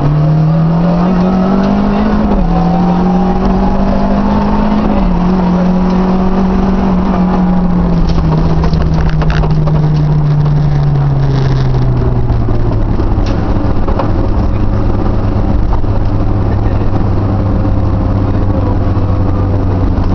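Renault 5 GT Turbo rally car's turbocharged four-cylinder engine heard from inside the cabin, revving up through the gears for the first few seconds. Its engine speed then drops away over several seconds and settles to a steady low run, with a few knocks from the car around the middle.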